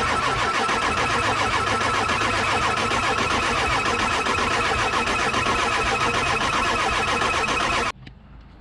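Ford 7.3 Power Stroke V8 diesel being cranked over by its starter, a steady rhythmic churning that stops abruptly about 8 seconds in without the engine firing. It is a no-start that the owners put down to the high-pressure oil system, its HPOP or IPR valve, not yet refilled with oil.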